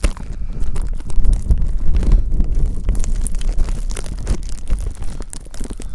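Wind buffeting the microphone in a snowstorm: a loud, uneven low rumble that gusts up about a second in, with crackling over it.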